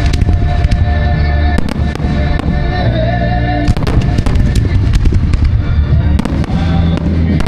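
Fireworks going off in clusters of sharp bangs and crackles, over loud music with heavy bass and held tones.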